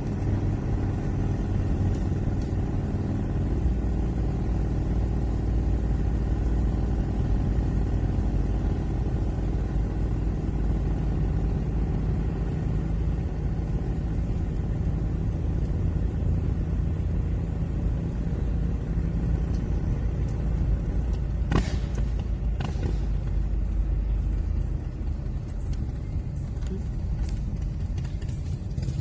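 A road vehicle's engine running steadily on the move, a continuous low rumble. Two short sharp clicks come about three quarters of the way through.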